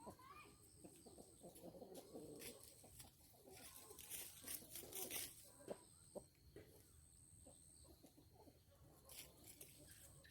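Chickens clucking faintly, with scattered light knocks and a brief rustle about four seconds in. A faint high whine comes and goes.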